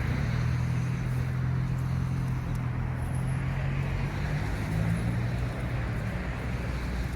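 A motor vehicle's engine running steadily with a low hum, its pitch shifting slightly partway through, over a steady hiss of outdoor background noise.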